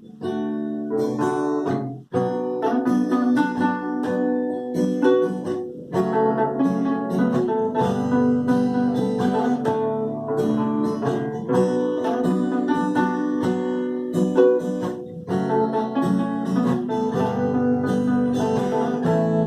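Acoustic guitar playing a chord progression as a song's instrumental intro, with a brief break about two seconds in.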